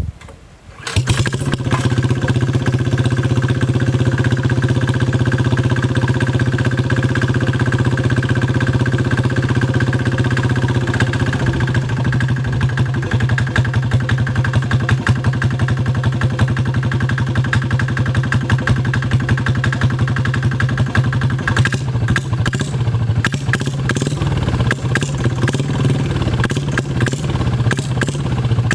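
Small 3 hp diesel engine cold-started in freezing weather: it catches about a second in and then runs steadily, loud and even.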